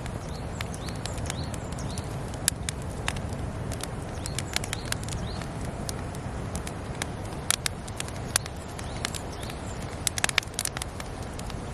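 Wood campfire crackling, with irregular sharp pops that bunch up twice in the second half, over a low steady rumble. Birds chirp faintly in the first half.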